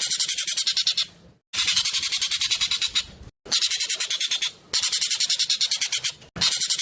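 Jovin (ekek keling) bird singing fast, loud song in a series of bursts, each a rapid run of shrill notes at about ten a second, with short breaks between bursts.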